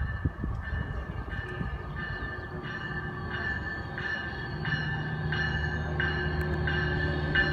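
Approaching Metrolink diesel locomotive: a bell rings steadily about every two-thirds of a second, growing louder, and the locomotive's low engine drone comes in about halfway through.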